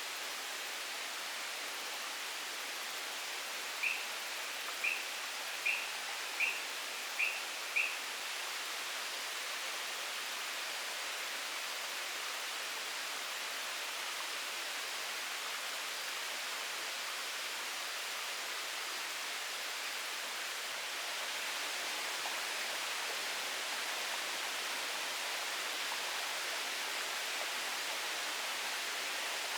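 Steady, even hiss of forest ambience, swelling slightly a little after the middle. About four seconds in, a bird gives six short, high call notes, evenly spaced over about four seconds.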